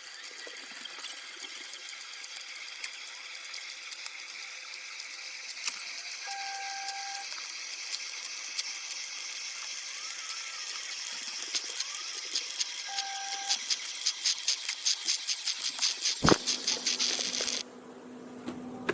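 Amazon Basics 5-cup drip coffee maker brewing: a steady hiss with sputtering clicks that grow faster and louder as the water heats and percolates, then cut off suddenly near the end. Two short beeps sound during the hiss, and there is a single knock shortly before the end.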